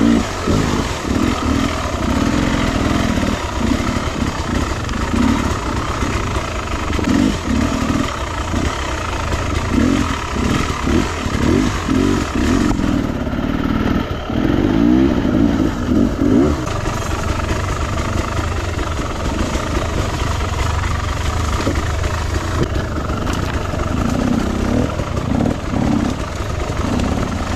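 Carbureted two-stroke Beta 300RR dirt bike engine running under way, its revs rising and falling unevenly with the throttle.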